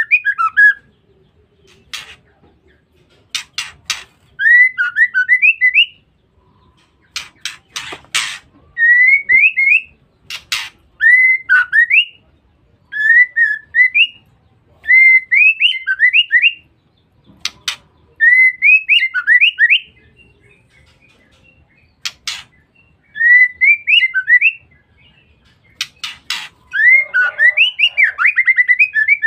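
Female white-rumped shama calling: short rising whistled phrases repeated about every two seconds, with sharp, harsh clicking notes between them.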